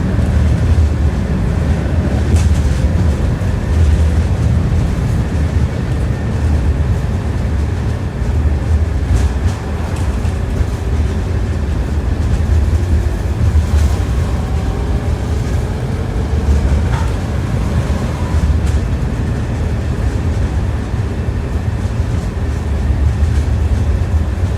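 Tram heard from inside the car while it runs along the line: a steady rumble of wheels on rail with an occasional clack from the wheels.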